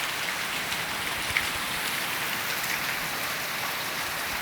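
Heavy rain falling and pattering steadily on surfaces, with one brief louder drop tick about a second and a half in.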